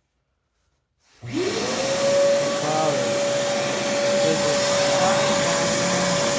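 Shop vac switched on about a second in, its motor spinning up with a quickly rising whine that settles into a steady high tone over loud rushing air.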